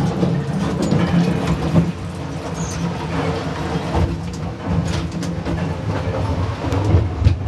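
Narrow-gauge railroad car rolling on the track: a steady low rumble with scattered clicks and clatter from the wheels, heard from inside the car's toilet compartment with the bowl's drop hole open to the track below.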